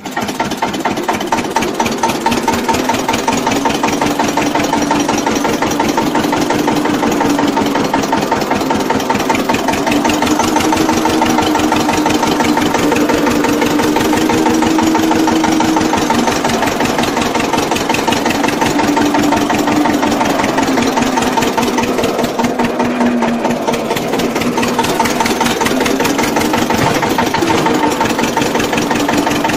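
Homemade mini tractor's engine running with a fast, even chugging, its speed drifting slowly up and down.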